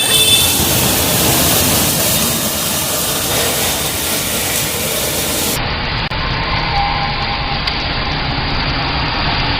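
Firecrackers burning with a loud, steady hiss, without distinct bangs. The upper range of the sound drops away suddenly a little over halfway through.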